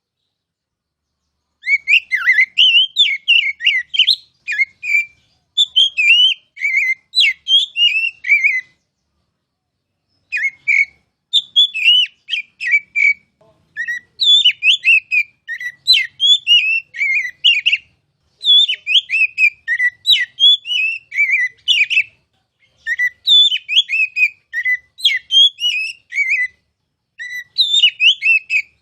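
Oriental magpie-robin singing: fast phrases of varied whistled notes that jump and slide up and down, each run lasting a few seconds with short pauses between, and a silent gap of nearly two seconds at the start and another just before ten seconds in.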